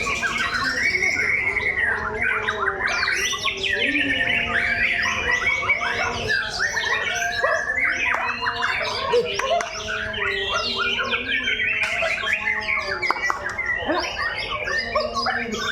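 Several murai batu (white-rumped shamas) singing at once in a contest, a dense, unbroken tangle of overlapping whistles, trills, chirps and harsh calls.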